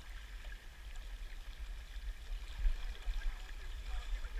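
River water rushing below a power dam, an even hiss of flow, with an uneven low rumble underneath.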